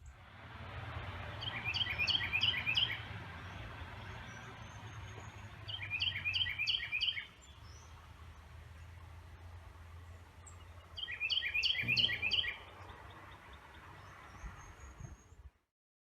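A songbird sings three quick bursts of rapidly repeated short notes, about five seconds apart, over a steady background hiss and low hum.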